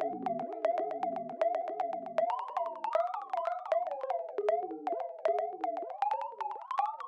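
Synthesized robot-style bleeps: a steady run of short pitched tones, each starting with a click and a quick pitch bend. A deeper layer drops out about two seconds in, and the tones climb higher near the end.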